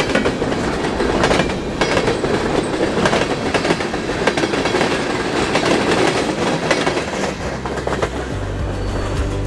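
Freight cars of a mixed freight train rolling past, wheels clicking steadily over the rail joints amid a constant rumble. Music fades in near the end.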